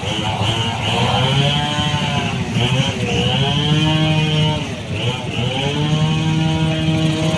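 Vehicle engines passing twice, each rising in pitch, holding steady, then dropping away.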